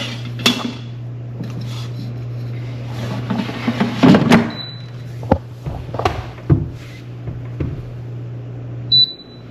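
A kitchen appliance hums steadily under knocks and clatter of doors and dishes. A short electronic beep sounds about halfway through, and another comes just before the end, when the hum stops.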